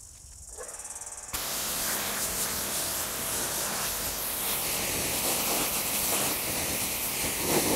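Electric pressure washer's water jet spraying onto a car, rinsing off heavy dirt: a steady loud hiss that starts suddenly about a second in.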